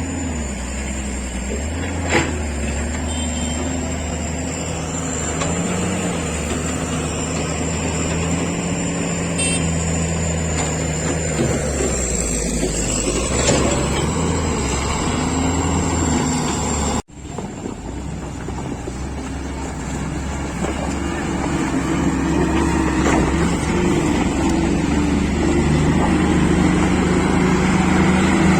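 A motor vehicle's engine running steadily with road noise, with a brief cut-out about seventeen seconds in, after which it grows a little louder.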